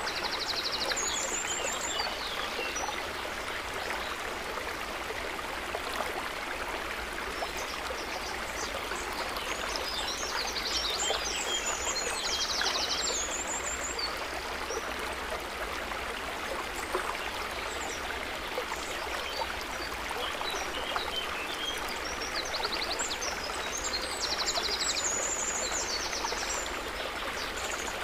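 Water trickling and babbling steadily, like a small stream running into a lake. Short bursts of high, rapidly pulsed animal calls come through about a second in, around the middle, and near the end.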